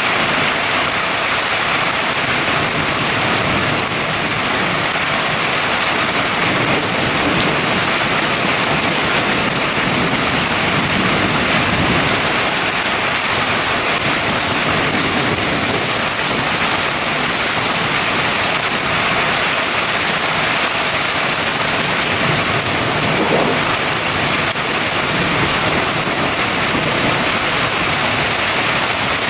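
Heavy rain pouring steadily during a thunderstorm, an even hiss with no single event standing out.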